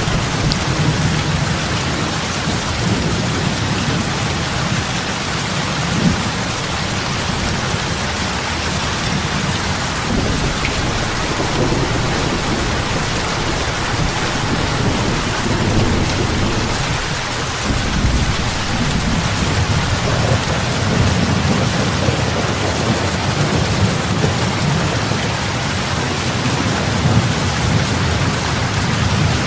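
Heavy rain falling steadily onto lake water, with big drops splashing and a deep low rumble underneath that swells and fades.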